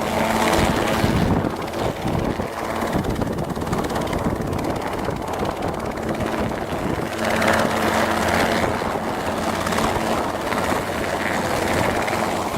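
Robinson R22 helicopter running: a steady drone of engine and rotor with a constant hum over a dense rushing noise.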